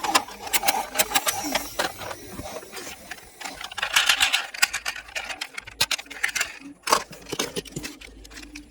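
Plastic toy vehicles clicking, rattling and knocking against each other as they are handled, in quick irregular clatters with a brief scraping rustle about four seconds in.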